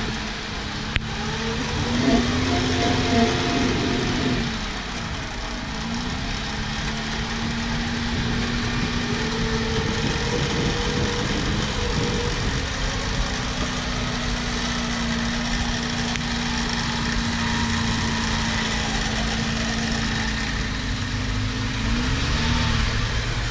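Off-road 4x4's engine running at steady revs, rising in pitch briefly about two seconds in and again near the end.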